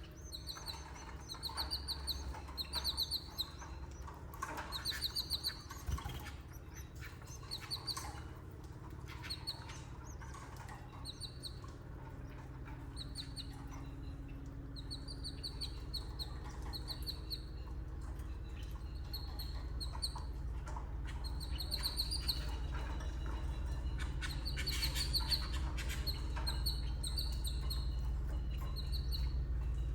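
Canaries chirping in short repeated bursts of high, quick notes, about one or two clusters a second, over a steady low hum that grows slightly toward the end.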